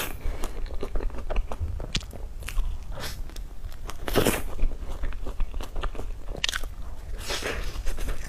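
Close-miked eating of cream puffs: bites and chewing with many small wet clicks and smacks, and several louder bites spread through.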